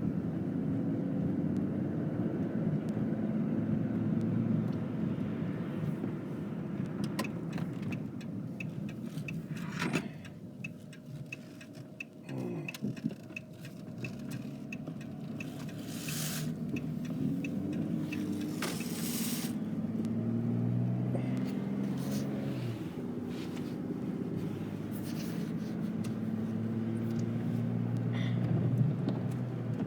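Car cabin road noise: the engine and tyres run steadily, then quieten about ten seconds in as the car slows. A few short clicks and two loud hissing swishes come midway, and the engine note then rises as the car picks up speed again.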